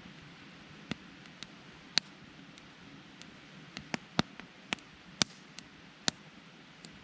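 Wood campfire burning with a steady faint hiss and irregular sharp crackles and pops, about a dozen over several seconds.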